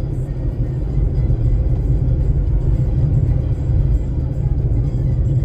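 Steady low rumble of a car driving on the road, heard inside the cabin, with music playing over it.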